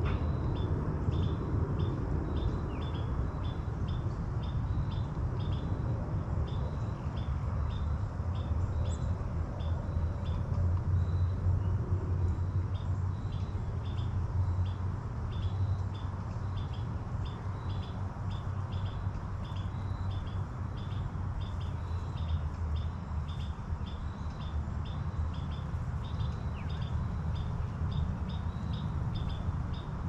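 A bird calling with a steady series of short, high chirps, about two or three a second, over a low rumble of background noise.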